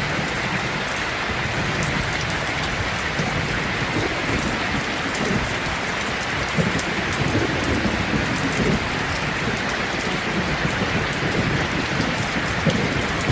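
Steady rainfall, an even hiss of many drops falling on surfaces.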